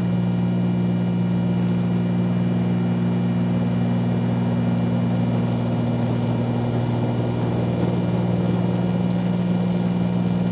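Steady cabin drone of a 1974 Cessna 310Q's twin piston engines and propellers in flight, a constant low hum that does not change.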